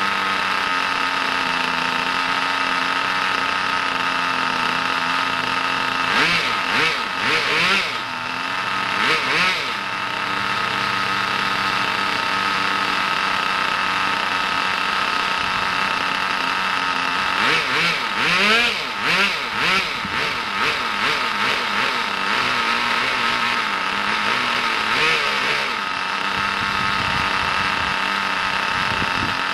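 Brand-new Kyosho GS11X engine in a Pure Ten Calsonic Skyline RC car running on its first run. It holds a steady idle, and the throttle is blipped into short revving bursts several times: a few seconds in, around the middle, and again later.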